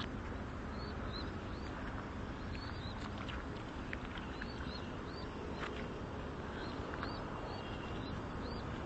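Small bird chirping repeatedly, short high chirps coming every half-second to a second, over a steady outdoor background rumble.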